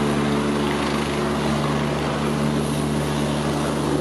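Helicopter running steadily: an even engine-and-rotor drone with a low hum under a broad rushing noise.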